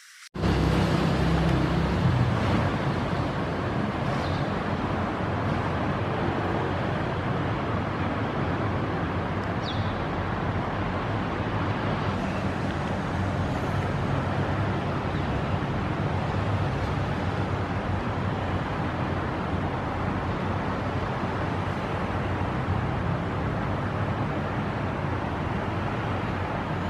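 Steady background rumble of road traffic, even and unbroken. A brief faint high chirp about ten seconds in.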